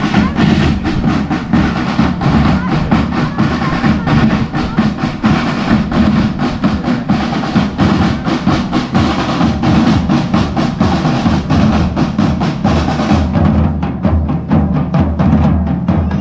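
A marching drum band playing a fast, steady beat on snare and bass drums. The sound turns duller about thirteen seconds in.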